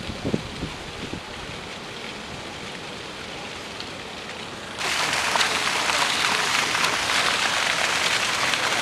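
Steady hiss of rain falling, with a few low bumps in the first second. About five seconds in the rain noise suddenly becomes much louder and brighter.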